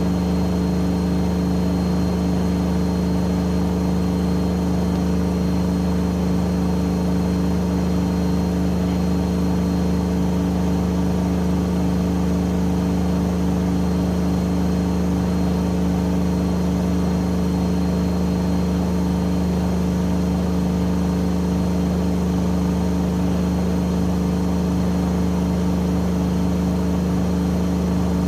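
AEG Öko-Lavamat 88840 washing machine spinning its drum at a steady high speed: a constant motor hum and whine with no change in pitch or level.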